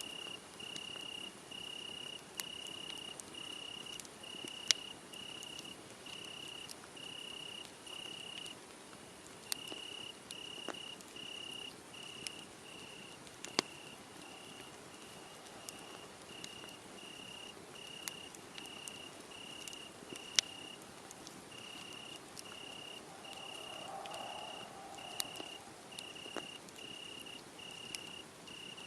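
A cricket chirping steadily, about three chirps every two seconds, with a couple of brief pauses. A wood fire crackles underneath, and a few sharp pops stand out above the chirping.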